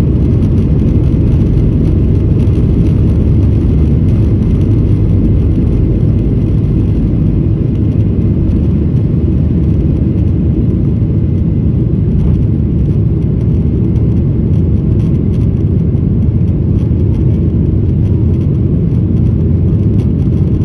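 Steady, loud, low rumble of a Boeing 737-900ER's CFM56-7B jet engines at takeoff power, even throughout with no distinct tones.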